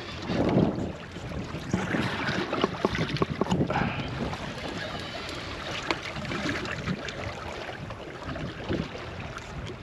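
Wind buffeting the microphone on a small boat, with water slapping against the hull and scattered sharp clicks and knocks, thickest in the first few seconds.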